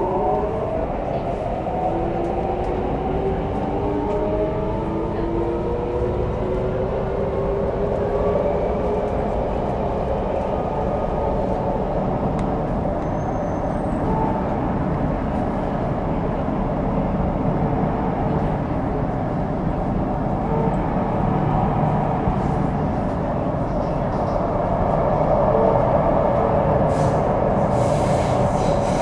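Inside a CRRC Changchun MTR electric train's motor car: the Mitsubishi Electric IGBT-VVVF traction inverter and motors whine in several tones that rise in pitch as the train accelerates over the first eight or nine seconds. The train then runs on at speed with a steady rumble.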